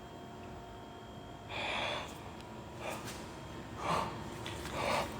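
A person breathing audibly close to the phone microphone: four short breaths or sniffs, the first about one and a half seconds in.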